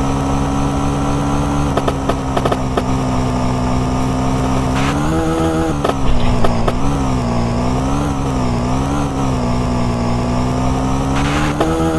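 Moped engine running, its pitch rising about five seconds in and then rising and falling several times as the throttle is worked, with another rise near the end.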